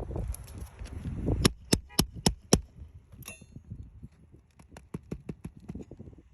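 Hammer strikes on a roof, five sharp blows about four a second, followed by lighter scattered taps: nailing a lifted asphalt shingle back down.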